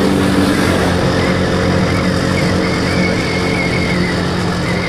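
Motorcycle engine running at a steady speed while riding, a constant hum under a steady rushing noise.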